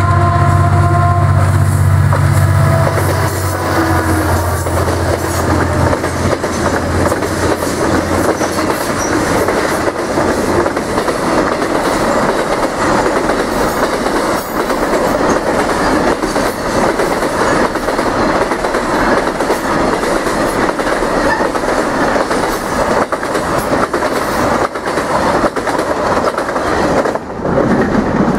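Two diesel freight locomotives passing close by, the horn dying away in the first couple of seconds and the deep engine rumble fading over the first several seconds. A long line of loaded container flatcars then rolls past with steady wheel clatter, which drops off suddenly near the end as the last car goes by.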